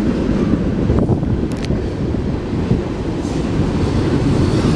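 Empty freight cars rolling past at track side: a steady low rumble of steel wheels on rail, with a couple of sharp clicks about a second in.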